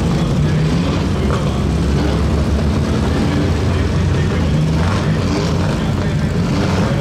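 Engines of several historic racing cars idling and running at low speed in a pit-lane queue as the cars creep forward.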